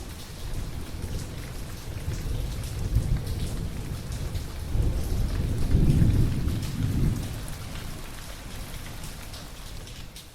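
Steady rain falling with a patter of drops, under rolling thunder that swells to its loudest about halfway through and then fades.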